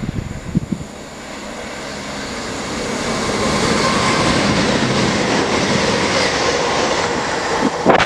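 CrossCountry Voyager diesel multiple unit (Class 220/221) running through the station at speed without stopping. A rushing of wheels and engines swells over the first few seconds as it approaches, then stays loud as it passes. A short burst of sharp knocks comes near the end.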